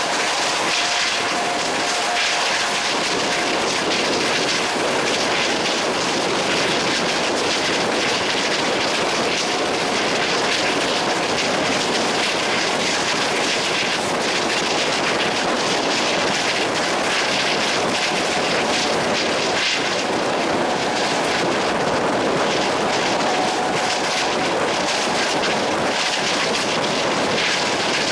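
Steady running noise of a moving train, an even rushing roar at a constant level with faint tones coming and going.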